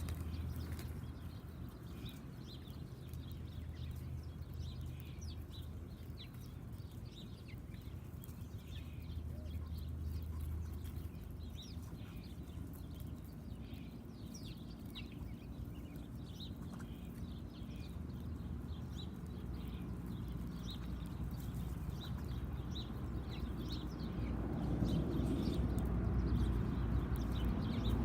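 Small backyard birds chirping in many short, quick calls, over a low steady hum that grows louder near the end.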